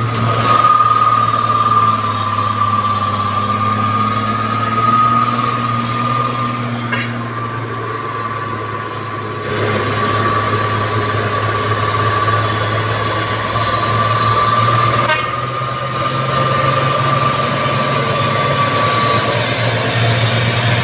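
Heavy diesel truck engine running under load, with a steady high-pitched whine over it that stops near the end.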